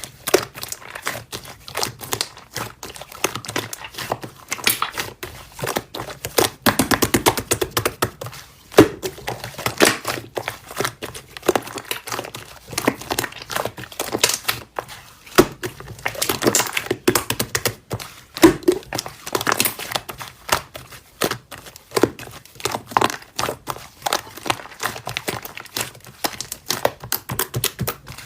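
Slime being squished and pressed by hand, making dense irregular crackling and popping clicks, with a quick run of rapid clicks about a quarter of the way through.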